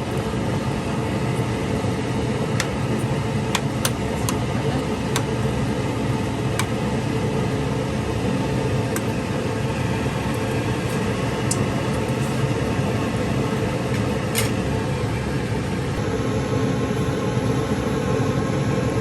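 Steady mechanical hum, like a fan or motor running, with a few sharp clicks scattered through it.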